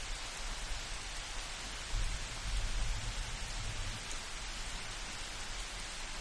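Steady rain falling, an even hiss, with a low rumble of distant thunder swelling for a second or two about two seconds in.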